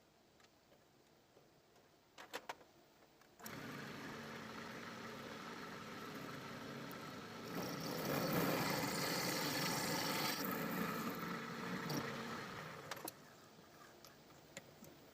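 An electric power tool starts abruptly after a few clicks and runs steadily, getting louder and harsher for about three seconds in the middle, then stops near the end.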